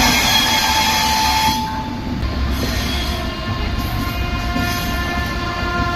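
Indian Railways express train pulling out of the station, heard from inside a coach by the open window. The wheels give a low rumble, and about halfway through a high, steady squeal sets in.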